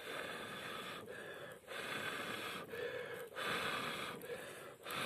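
A person breathing close to the microphone in repeated audible breaths, roughly one a second, alternating longer and shorter breaths.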